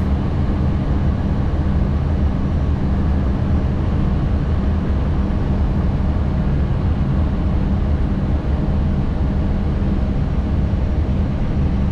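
Steady cockpit noise of an Airbus A320 on final approach: airflow and engine drone with a constant low hum.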